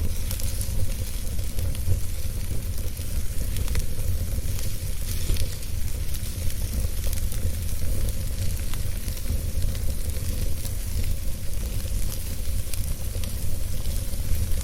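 Wood fire burning in a fireplace: a steady hiss over a low rumble, with faint scattered crackles.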